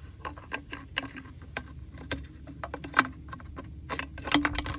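Irregular clicks and taps of metal forceps working in the fuel tank opening of a Stihl MS271 chainsaw, fishing for the fuel filter, with the sharpest knocks about three seconds in and again near the end.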